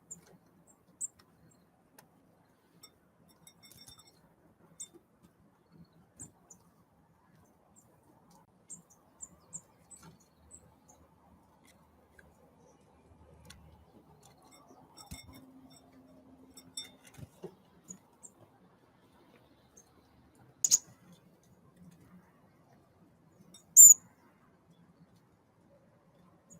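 Thin, high, brief calls of small birds scattered through a mostly quiet background, with a few small clicks. Near the end come a sharp click and then the loudest note, a short high call.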